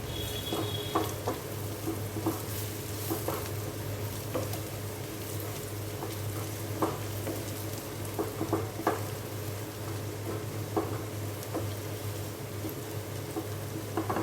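Spiced masala with chopped garlic and green chillies frying and sizzling in a pan, while a spatula stirs it with irregular scrapes and taps against the pan.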